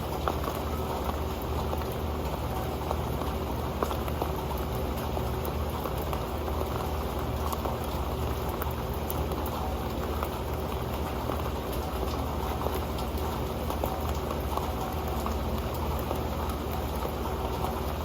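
Rain falling steadily onto an old pan. Many small drops tick against it in a dense, even patter.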